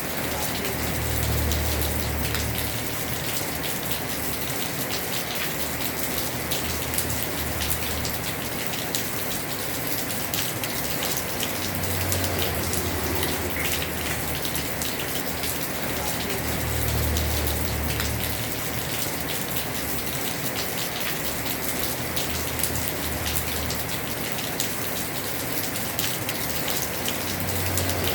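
Heavy rain falling steadily on a house roof, a dense hiss with individual drops ticking through it. A low rumble swells and fades several times underneath.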